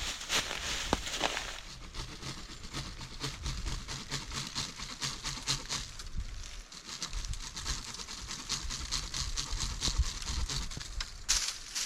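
Dry leaves and twigs crackling and snapping in a fast, uneven run of small clicks, as someone moves through forest undergrowth.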